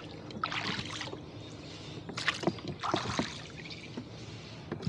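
Oars working a rowboat through choppy lake water: irregular splashes and water slapping, loudest about half a second in and again around two and three seconds in.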